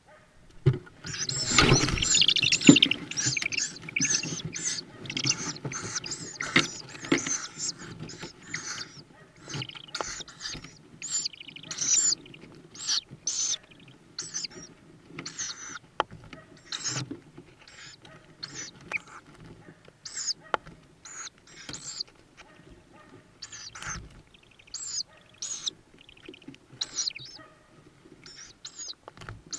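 Tawny owl chicks in the nest box giving short, wheezy, hissing calls over and over. The calls are crowded together and loudest for the first few seconds, then come more spaced out, with some rustling underneath.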